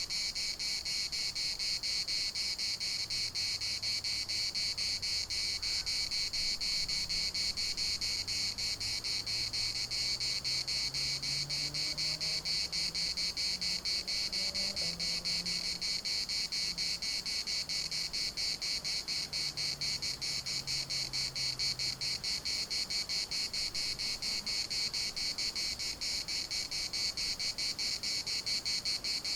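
A chorus of cicadas buzzing steadily: a dense, high-pitched, rapidly pulsing drone that never breaks. A faint low hum rises and then fades away in the background through the middle.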